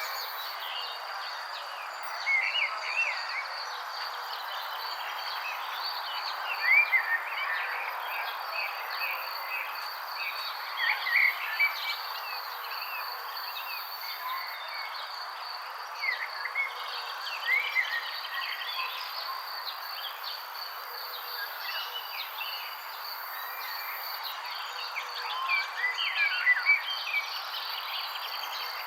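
Wild birds chirping in short, scattered phrases of quick up-and-down notes, over a steady high insect trill and an even background hiss.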